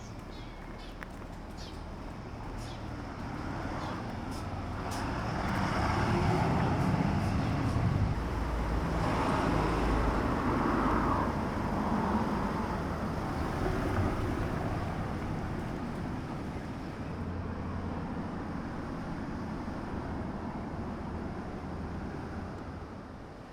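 Road traffic going by: vehicles pass with a rising and falling rush, loudest about the middle, over a steady engine hum.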